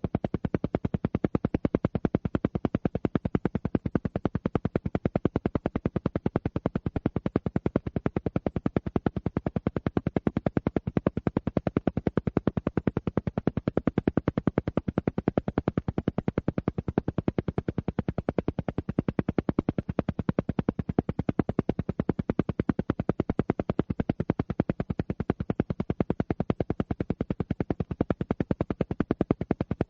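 Alpha-wave brainwave-entrainment sound: a pulsed tone beating in rapid, perfectly even pulses, roughly ten a second, with no change in pace or level.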